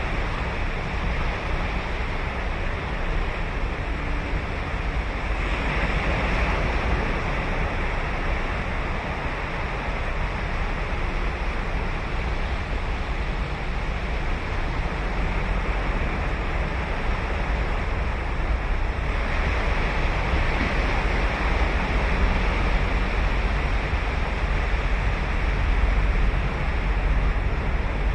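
Ocean surf breaking and washing onto a sandy beach, a continuous rush with a steady low rumble. It swells twice, about five seconds in and again near twenty seconds, as waves break.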